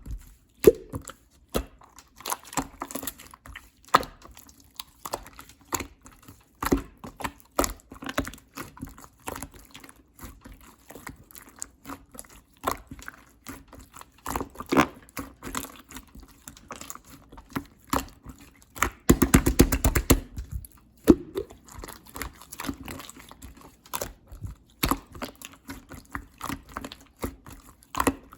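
Clear slime being squished, pressed and stretched by hand, making irregular wet clicks and small pops. A dense run of rapid clicks comes about two-thirds of the way in.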